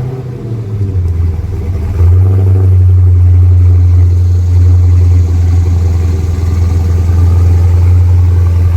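Dodge Charger Daytona 392's 6.4-litre HEMI V8 just after a cold start, idling with a deep, steady drone through the stock exhaust with its mid-mufflers still fitted. About two seconds in it gets louder, then holds steady.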